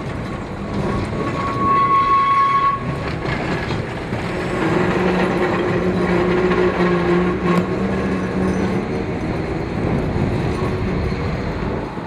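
Electric tram running with a continuous rumble; its horn sounds one steady note for about two seconds near the start, and a low steady hum comes in during the middle seconds.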